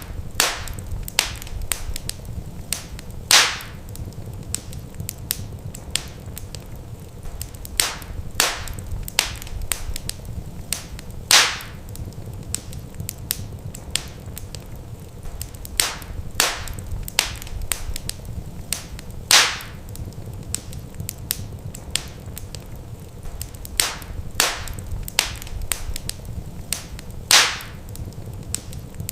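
Wood fire crackling, with irregular sharp pops and snaps over a steady low rumble. A few louder pops stand out about every eight seconds, as the same crackling pattern repeats.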